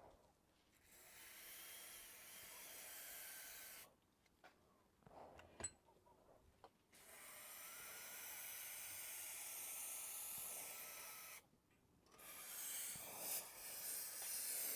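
Cylinder bore being honed out with a power tool: three hissing, grinding passes of about three to four seconds each, with short pauses and a click between them.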